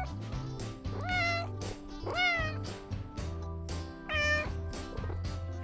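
Domestic cat meowing three times, each meow rising then falling in pitch, over background music with a steady beat.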